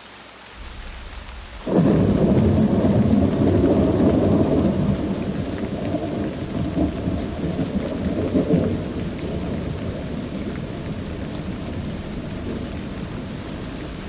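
Steady rain with a sudden clap of thunder about two seconds in, rolling on as a deep rumble that slowly dies away.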